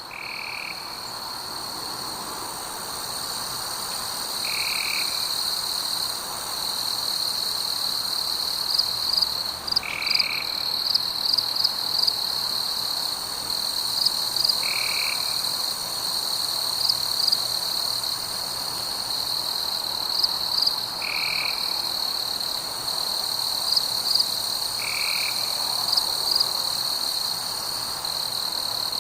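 Frogs calling over a steady high-pitched trill: a short call repeats about every five seconds, and clusters of quick chirps join in from about a third of the way through.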